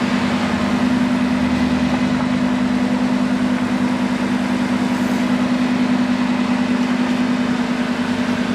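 Lamborghini engine idling steadily, with a constant low hum and an even, fast pulse.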